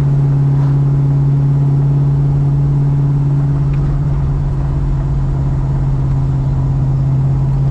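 Holden Commodore engine running at a steady cruise, its drone holding one even pitch; the motor is being run in.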